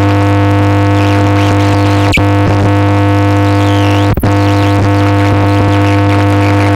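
Dark ambient electronic music: a loud, steady drone of several held tones, with high wavering, sliding tones drifting over it. A sharp click comes about two seconds in, and the sound cuts out briefly around four seconds in.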